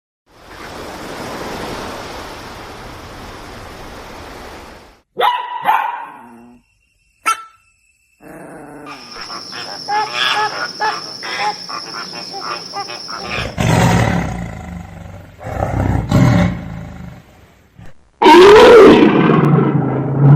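A run of separate animal-call clips, each cut off abruptly: a hiss-like stretch, a couple of short calls, a long busy passage of calls over a steady high tone, and loud low-pitched calls near the end.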